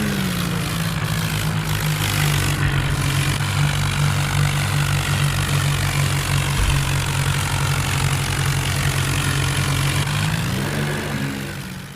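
Tractor diesel engine running steadily, its pitch rising near the end.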